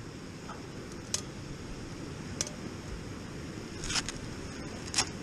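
Steady low outdoor background rumble, with four short, sharp clicks spread through it.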